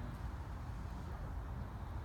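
Steady low rumble with no distinct sounds in it.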